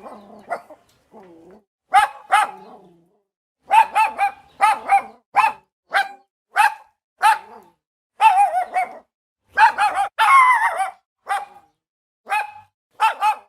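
Dog barking repeatedly, sharp barks in quick runs of two or three with short pauses between. A denser, continuous stretch of barking comes a little past the middle.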